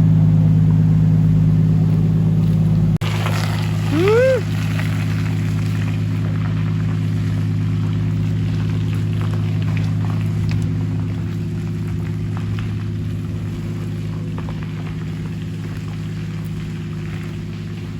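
Vehicle engine running steadily, a low even hum, with a brief rising-and-falling tone about four seconds in.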